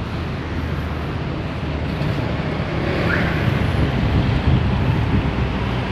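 Road traffic passing, with wind on the phone's microphone, slowly growing louder.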